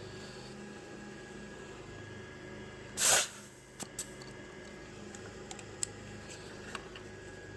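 A short, loud hiss of air about three seconds in: the compression tester's gauge being bled down after the cylinder one reading of about 190 psi. A few small clicks follow, over a low steady hum.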